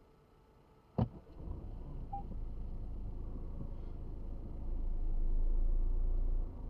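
A car door shuts with one sharp thud about a second in, then the car's low, steady rumble of engine and road noise follows, growing louder for a moment near the end.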